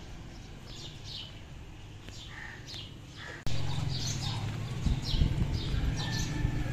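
Small birds chirping, short falling chirps about twice a second. A steady low rumble comes in abruptly about three and a half seconds in.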